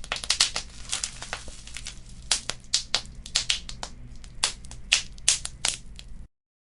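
Wood fire crackling in a fireplace: a low steady rush of flame with frequent sharp pops and snaps from the burning embers, some louder ones standing out. The sound cuts off abruptly to silence shortly before the end.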